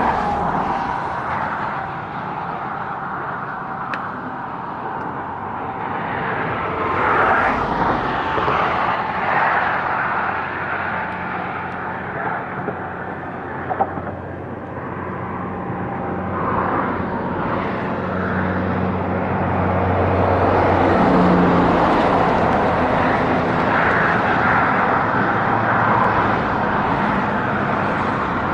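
Fast highway traffic passing close by, a steady tyre-and-wind rush that swells as vehicles go past. A heavy vehicle's low engine drone comes through in the middle. Wind buffets the microphone.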